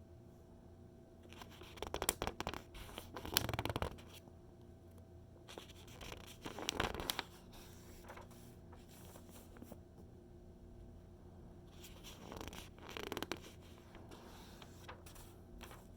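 Magazine pages being turned by hand, three times, each turn a rustling paper swish with small crackles.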